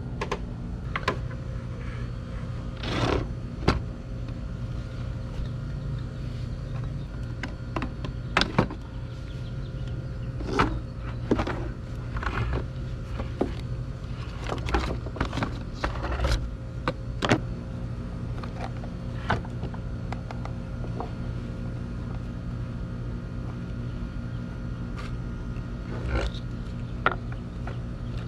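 Scattered clicks, taps and knocks of hands and tools working on a Homelite string trimmer head, over a steady low mechanical hum.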